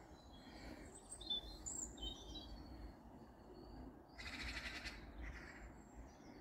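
Small birds chirping and calling faintly, short high notes scattered through, with a brief scratchy burst just after four seconds in. A low rumble of wind or microphone handling sits underneath.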